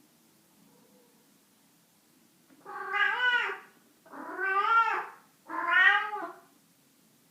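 Domestic cat meowing three times in quick succession, each meow about a second long, rising and then falling in pitch, after a quiet start.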